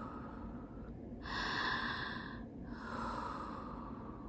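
A woman taking slow, deep breaths, each breath sound lasting a little over a second, the last one fading away.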